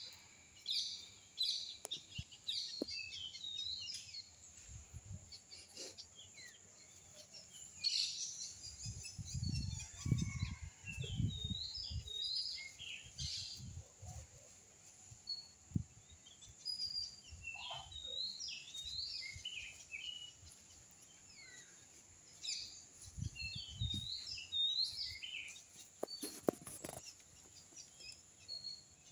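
Birds calling outdoors in many short chirps and twitters, over a steady high hiss. A few low rumbles and thumps come through partway, around the middle and again later.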